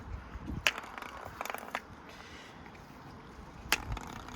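Precept washing machine knocking and rattling as it runs with a coin inside: a sharp knock a little under a second in, a brief rattle, and another sharp knock near the end.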